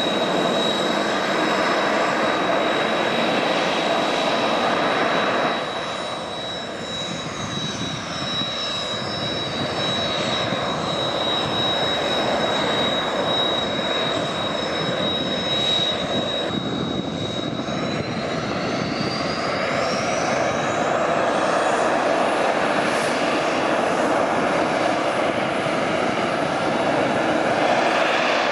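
Kawasaki T-4 jet trainer's twin turbofan engines running, a loud rush of jet noise with a steady high whine. A second high whine falls over several seconds, holds, then rises again.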